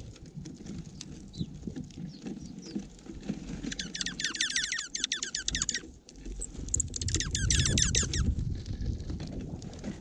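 Two bursts of a fast chattering trill of high notes from a small bird, about four seconds in and again near the end, over the close-up pecking, scratching and pattering of birds feeding at a seed feeder.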